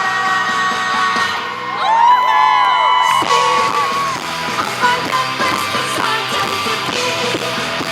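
Live rock band playing loudly, with distortion from the recording overloading. About two seconds in, a wavering, bending high note cuts across the band for about a second.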